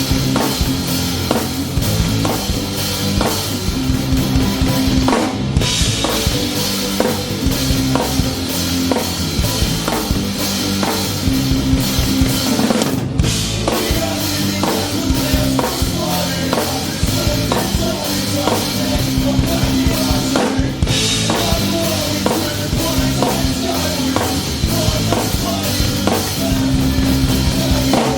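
Rock band playing live with the drum kit to the fore: a steady beat of bass drum, snare and cymbals over held low notes from the band.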